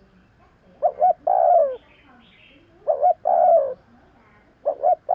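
Spotted dove cooing its repeated call: two short notes, then a longer drawn-out note that falls at the end, repeated about every two seconds.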